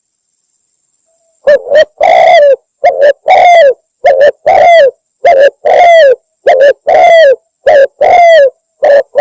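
Spotted dove (tekukur) calls played as a hunting lure: after about a second and a half of silence, a loud, rapid run of repeated coos, short notes mixed with longer ones that fall in pitch at the end.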